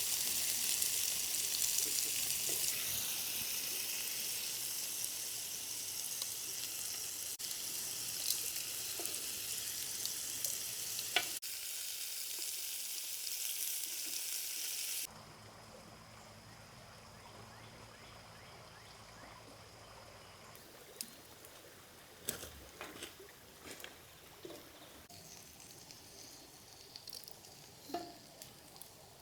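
Food sizzling as it fries in a pan, an even hiss that cuts off sharply about halfway through. A much quieter stretch follows, with scattered light clicks and clinks of cookware and utensils.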